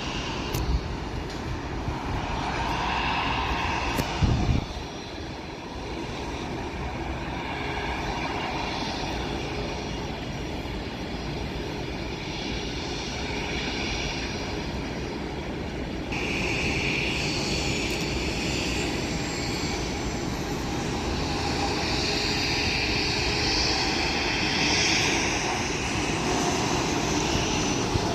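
Jet airliner engines running, a steady rushing noise with a multi-toned whine. The whine jumps suddenly and grows stronger a little past halfway. There are brief knocks about a second in and about four seconds in.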